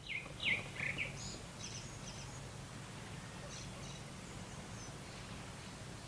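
Small birds chirping: a quick run of falling chirps in the first second, then a few thin, higher calls over the next few seconds, over a steady low outdoor background noise.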